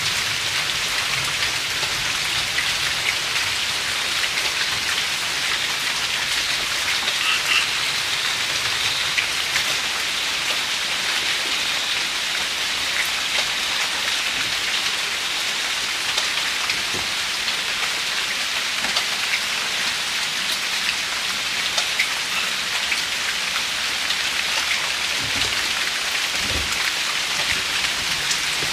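Steady light rain, a drizzle, falling in a constant even patter with many small drop ticks. A couple of brief low thuds come near the end.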